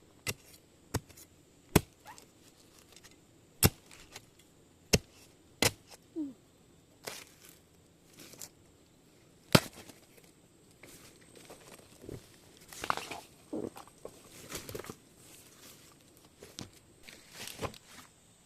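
Sharp chopping strikes at uneven intervals, a second or two apart. In the later part they give way to longer rustling and tearing sounds.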